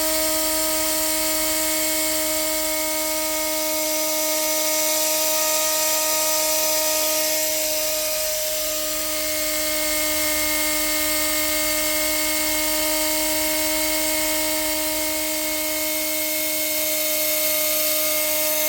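Impact wrench (rattle gun) running steadily with no hammering, a constant whine over a hiss, as it spins the loosened accumulator end cap off its thread. The pitch dips slightly about eight seconds in.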